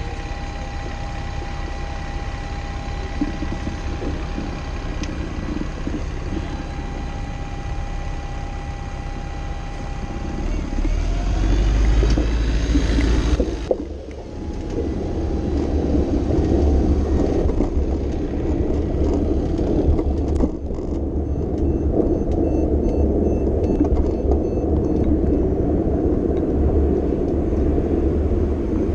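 City street traffic heard from a moving bicycle: a steady low rumble of vehicles with a faint steady whine early on, swelling as a vehicle passes close about ten seconds in and dropping away suddenly, then steady traffic rumble again.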